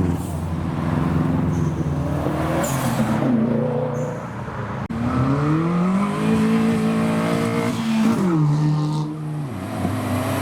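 Engines of modified cars accelerating through a roundabout: the pitch climbs steadily for a few seconds, then drops suddenly as the driver lifts off or shifts. Brief high chirps come through now and then.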